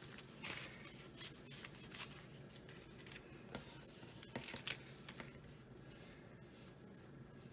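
Faint rustling of crisp new paper banknotes being handled and flicked, a series of short sharp rustles spread over several seconds.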